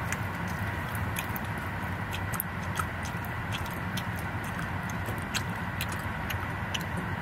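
Chewing a gummy candy, with small wet mouth clicks scattered throughout, over a steady low hum in the car's cabin.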